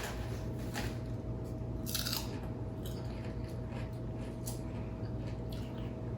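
A few short crunches of potato chips being chewed, the loudest about two seconds in, over a steady low hum.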